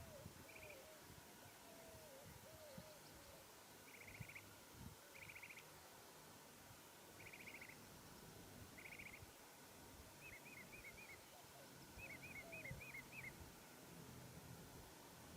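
Faint birdsong at near-silent level: short trilled calls repeated every second or two, then two quick runs of looping chirps in the second half, with a few lower whistled notes near the start.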